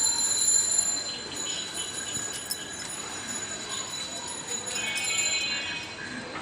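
Birds calling: a high, steady whistling note in the first second or so, then a call about five seconds in.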